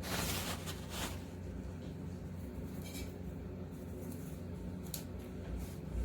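Washing machine running with a steady low hum, a short rustle at the start and a few faint clicks later on.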